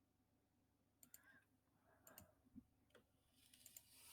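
Near silence with a few faint computer mouse clicks about a second apart; a soft hiss builds near the end.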